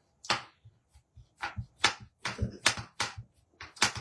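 A quick, irregular run of sharp clicks and taps, about a dozen in four seconds, from plastic stamping supplies being handled on a craft table.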